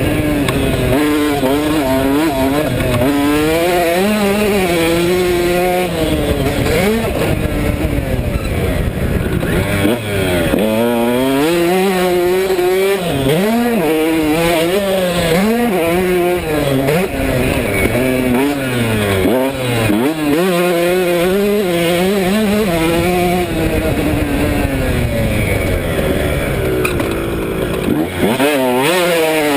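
KTM 150SX single-cylinder two-stroke dirt bike engine being ridden hard, its pitch rising and falling over and over as the throttle is opened and shut and the gears change.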